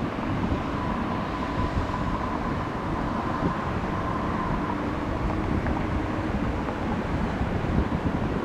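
Jet airliner engines rumbling steadily, with a faint high whine from about a second in until near the middle, and wind on the microphone.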